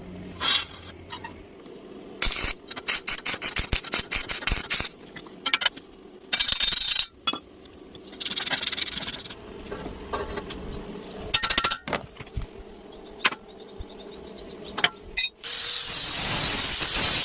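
A run of sharp metallic clinks, taps and scrapes from hand tools on metal, some in quick rapid runs. About fifteen seconds in, a power tool starts and runs steadily.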